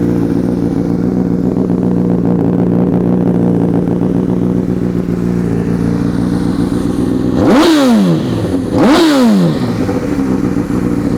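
2006 Honda CBR1000RR's liquid-cooled inline four-cylinder engine idling steadily through a Two Brothers Racing aftermarket exhaust. Twice near the end, a second and a half apart, the throttle is blipped and the engine revs up fast and drops straight back to idle.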